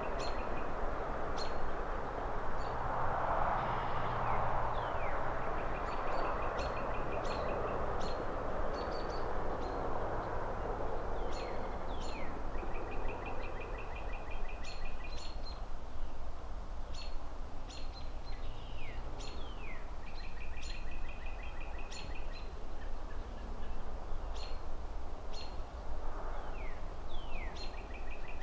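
Birds chirping: repeated rapid trills, short chips and quick downward-sliding calls, over a steady distant city traffic rumble. A soft rushing swell rises and fades about three to six seconds in and again near the end, like a passing car or wind through trees.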